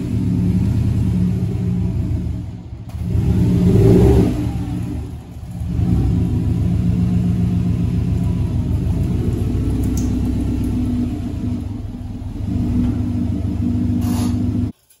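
2017 Subaru WRX STI's turbocharged 2.5-litre flat-four engine, warmed up, running as the car creeps into the garage. It swells twice in the first five seconds, then holds a steady low rumble, and cuts off suddenly near the end.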